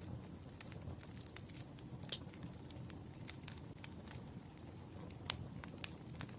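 Burning firewood crackling: irregular sharp pops and snaps over a low steady rumble, with two louder pops, one about two seconds in and one about five seconds in.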